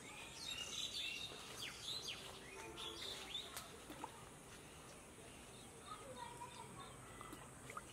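Birds chirping with short, quick calls, busiest in the first three seconds or so and sparser toward the end.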